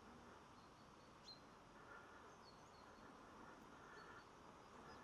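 Faint outdoor ambience with scattered short, high chirps of small birds, one sharper chirp about a second in.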